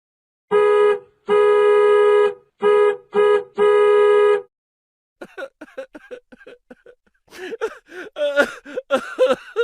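A comedy sound effect: one held electronic-sounding note sounded five times in a rhythm (short, long, short, short, long), like an organ or a horn. After a short gap comes a rapid, choppy chatter of short pitched sounds.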